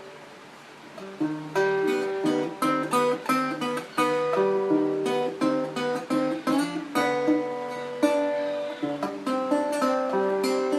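Acoustic guitar music: a chord rings and fades for about the first second, then picked notes and strummed chords follow in a steady rhythm.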